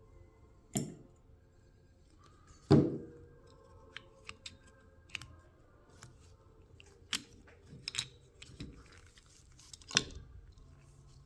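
Scattered clicks and knocks of tools and small metal parts being handled while a lawnmower carburetor is taken apart, the loudest knock about three seconds in.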